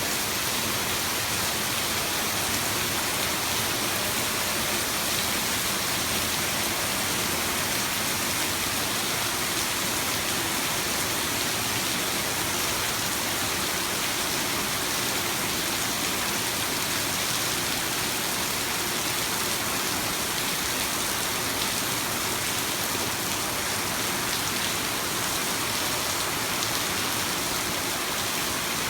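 Heavy tropical downpour, rain pouring steadily onto the ground and surfaces.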